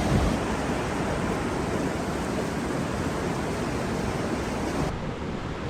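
Snowmelt river water rushing steadily. Near the end the sound changes abruptly and loses its highest hiss.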